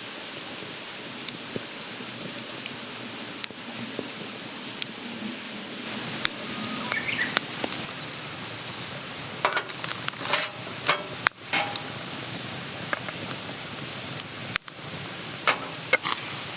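Wood campfire burning: a steady hiss with scattered sharp crackles and pops, busiest about ten seconds in, and brief thin whistles of escaping steam.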